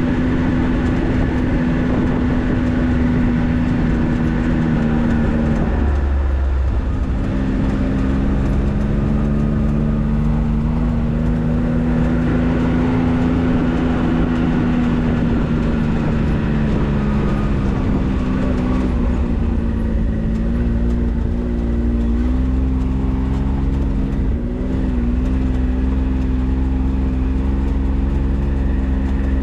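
4x4 vehicle being driven, its engine running steadily over a constant low road rumble. The engine note dips and changes pitch three times, about six seconds in, and around twenty-two and twenty-five seconds, as if shifting gear.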